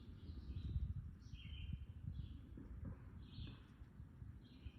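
A bird repeating short, high chirps about once or twice a second, over a low rumble of noise on the microphone.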